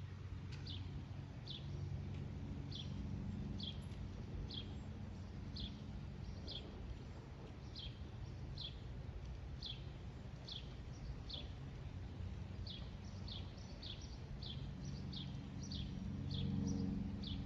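A bird calling over and over: short, high chirps that slide downward, about one a second at first and quicker later. Under them is a low steady rumble that grows louder near the end.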